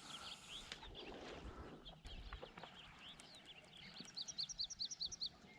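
A bird singing faintly: scattered high chirps, then a quick run of about nine repeated rising notes about four seconds in.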